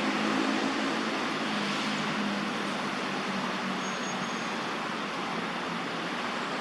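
Steady road-traffic noise, an even wash of tyre and engine sound, with the low hum of a vehicle engine passing in the first few seconds.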